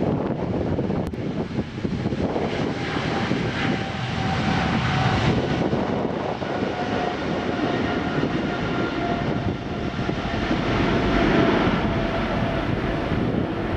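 Jet aircraft engine noise: a steady, loud rush with faint high whining tones held through it.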